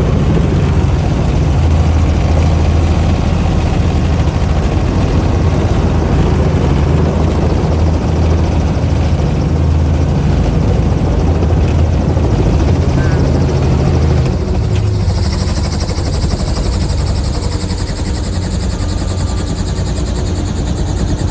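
Helicopter running: a loud, steady low drone of engine and rotor. About 15 seconds in the deepest part of the drone drops away and a high hiss comes in.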